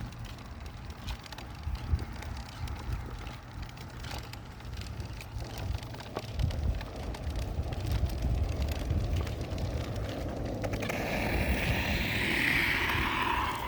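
Wind buffeting the microphone outdoors, a low rumble with scattered small clicks. About eleven seconds in, a rushing noise swells up and fades away near the end.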